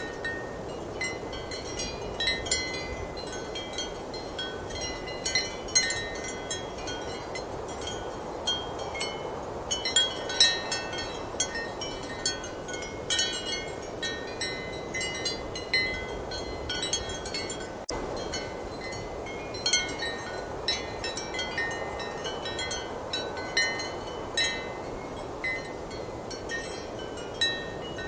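Ceramic wind chimes clinking and ringing irregularly in strong wind, over a steady rushing of the wind.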